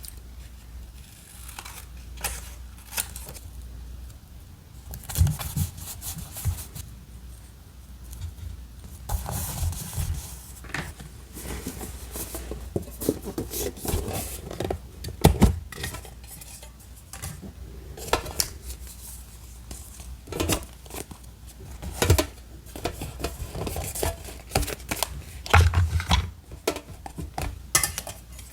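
Paper and small stationery tools handled on a desk while decorating a journal: irregular taps, clicks and rustles, with a few sharper knocks of items being set down.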